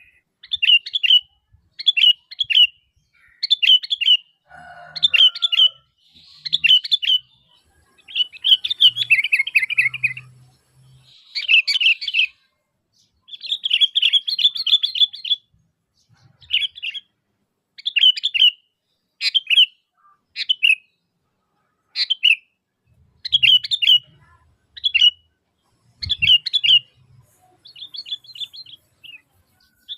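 Sooty-headed bulbul (kutilang) calling vigorously. Short, bubbly, whistled phrases repeat about once a second, with a few longer runs of rapid notes.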